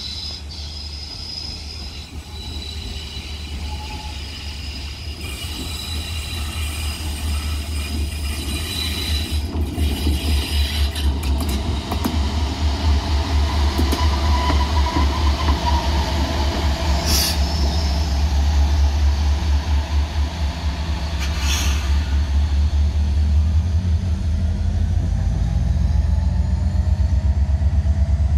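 A train moving through the station: a heavy, pulsing low locomotive drone that grows louder, with thin high wheel squeal in the first half and two sharp metallic clanks later on.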